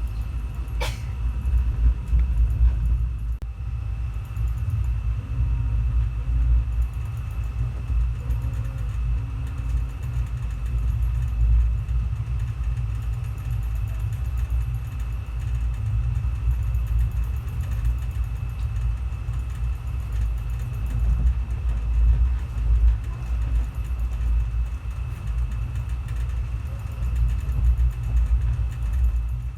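Passenger train running, heard from on board: a steady low rumble with a faint constant high tone, and one sharp click about a second in.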